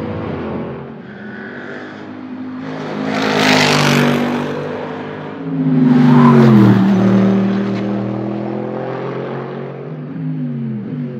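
Mercedes SLS AMG GT3 race car's V8 engine running hard on track. A loud rushing swell comes about three and a half seconds in, and a car passes close about six seconds in, the engine note at its loudest and dropping sharply in pitch as it goes by, with another drop in pitch near the end.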